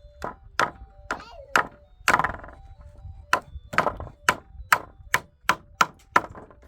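A tool striking wood hard and repeatedly, about a dozen sharp blows at a steady pace of two to three a second, with a brief pause about two seconds in.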